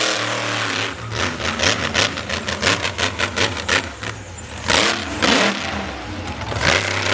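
Monster truck engine running and revving, with a rapid run of throttle pulses in the first few seconds and louder surges later.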